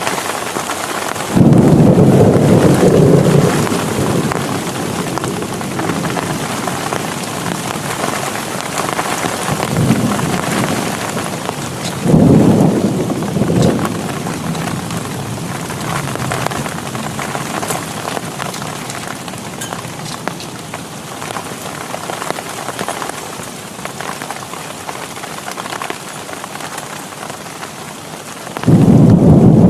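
Heavy rain falling steadily in a thunderstorm, with sudden loud thunderclaps about a second and a half in, around twelve seconds in and near the end.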